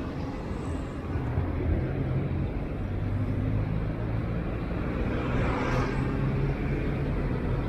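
Road traffic heard from a moving bicycle: a vehicle's engine hums steadily, and something passes close about five to six seconds in, over a low rumble.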